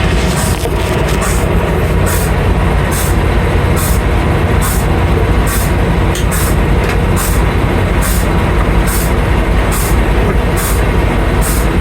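Semi-truck diesel engine idling with a steady low rumble, over a regular high hiss that pulses a little faster than once a second.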